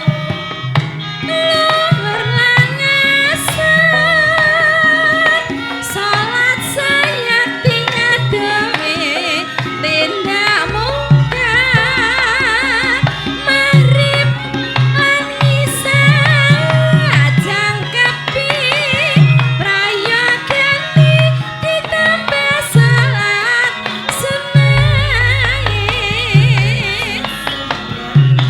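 Javanese gamelan music playing, with a wavering melody line over repeated hand-drum (kendang) strokes.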